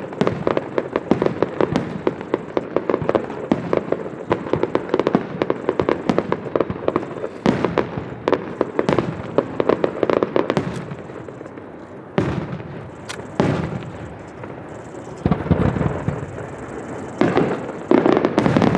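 Fireworks display: a dense, rapid crackle of many small bursts, giving way past the middle to fewer, heavier bangs, each followed by a low rumble, with another cluster of loud bangs near the end.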